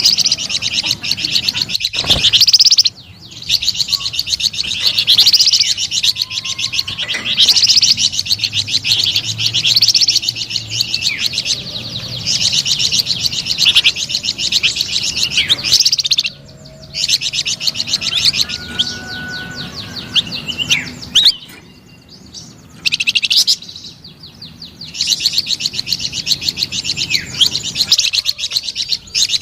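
Flamboyan songbird singing vigorously in long, rapid, high chattering and trilling phrases, broken by a few short pauses.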